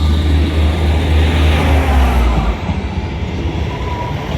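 Class 158 diesel multiple unit pulling out, its underfloor diesel engines giving a deep throbbing rumble that drops away a little over halfway through.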